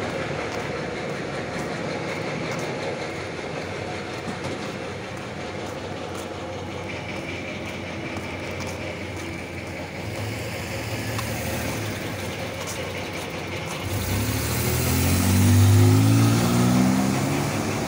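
Steady hiss of outdoor street noise. About fourteen seconds in, a car engine close by grows louder and rises in pitch.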